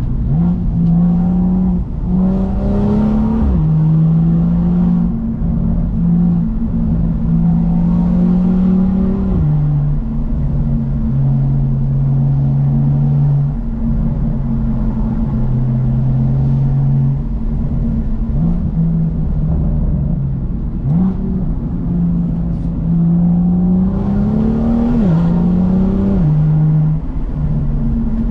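BMW M2's N55 turbocharged inline-six through a Remus aftermarket exhaust, being driven: the engine note climbs in pitch under acceleration three times, near the start, about eight seconds in and near the end. Each climb ends in a sharp drop in pitch, as at a gear change, and the note holds steady between the pulls.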